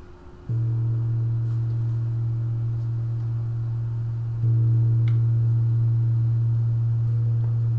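Large crystal singing bowl sounding a low, steady, nearly pure tone. It sets in suddenly about half a second in, then comes in louder a little past halfway, and holds without fading.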